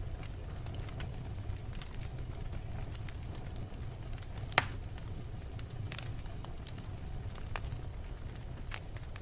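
Wood fire burning in a fireplace: a steady low rumble of flames with scattered crackles from the logs and one loud pop about halfway through.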